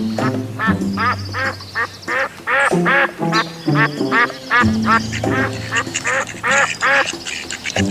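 Ducks quacking over and over, a few quacks a second, with background music underneath.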